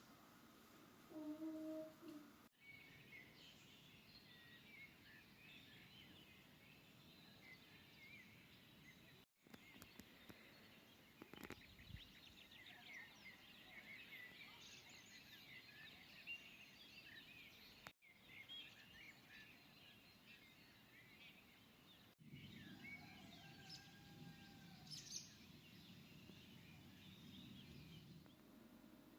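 Faint small birds chirping and twittering, many short high calls over a low background hush, broken off abruptly several times.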